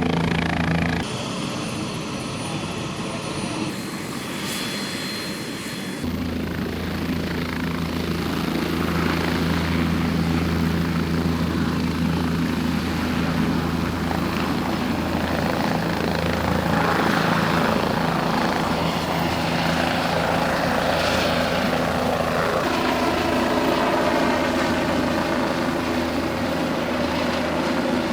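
Helicopter running steadily, a low, even drone from its rotor and engine, with several abrupt jumps in level where the footage is cut.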